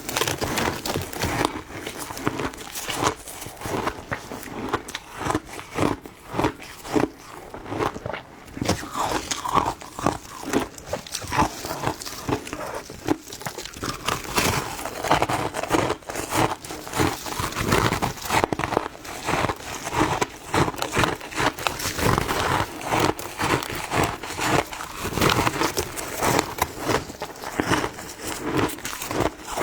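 A person biting and chewing ice: a long run of sharp, irregular crunches, one after another.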